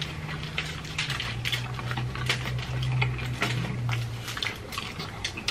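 Close-miked chewing: wet mouth clicks, smacks and crackles of people eating, coming in quick irregular bursts over a low steady hum.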